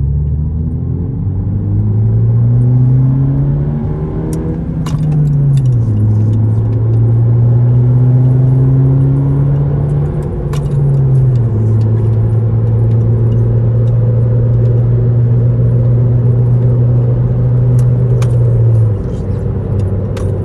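Inside the cabin, the 1.5-litre turbo four-cylinder of a 2018 Honda Civic hatchback with its muffler and resonator deleted pulls under acceleration. The exhaust drone rises for several seconds, drops at a gear change about five seconds in, dips briefly again near the middle, then holds a steady drone until it falls away near the end. Its loudness is 'not too loud, not too quiet'.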